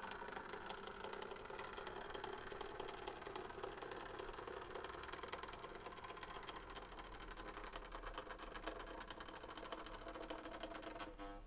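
Small model-railway locomotive running on track: the electric motor whirs with a fast, fine rattle from the wheels and gears. It stops abruptly near the end.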